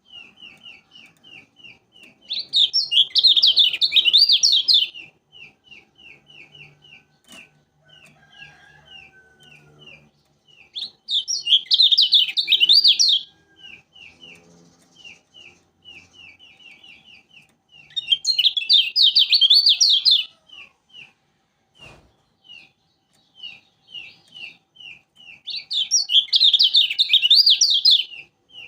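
A kecial kuning, a Lombok yellow white-eye, calling a steady rapid string of short high chip notes, about five a second. Four times it breaks into a loud, fast, warbling song burst of two to three seconds.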